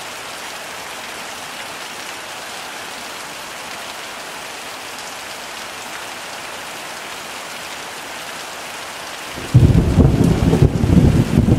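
Heavy rain falling steadily. About nine and a half seconds in, a sudden loud clap of thunder breaks in and goes on as a deep, crackling rumble.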